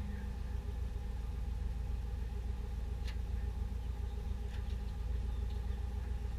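1989 Ford F-150's engine idling steadily, with a low, even rumble, run after the fresh oil fill. A faint click about three seconds in.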